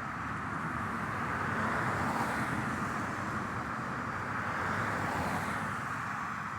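Road traffic passing steadily, with two vehicles swelling louder as they go by, about two and five seconds in.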